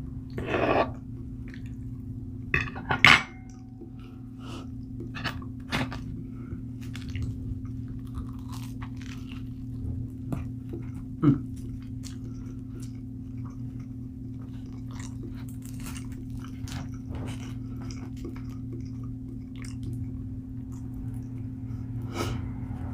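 Close-up eating: chewing and crunching with many small wet clicks, plus a sharp clink of dishware about three seconds in and another smaller knock near the middle. A steady low hum runs underneath.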